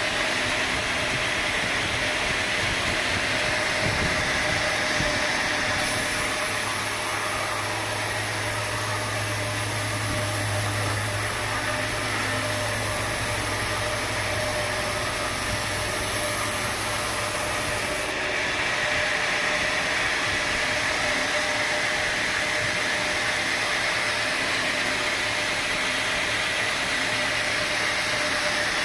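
Sawmill machinery running steadily with an even mechanical noise and a constant whine, its tone shifting about six seconds in and again about eighteen seconds in.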